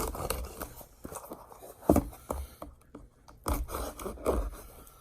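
Scraping and rubbing of a knife being handled at a cardboard package, with a few sharp knocks about two seconds in and again near three and a half and four and a half seconds in.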